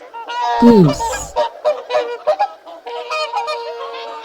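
Goose honking: a quick run of short honks, then a longer held honk near the end.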